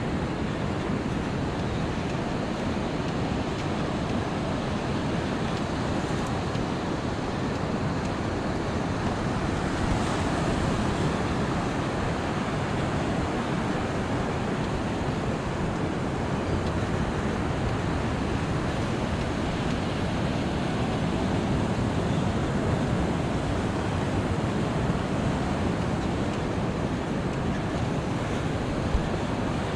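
Ocean surf breaking and washing on a sandy beach, a steady rushing wash that swells slightly about ten seconds in.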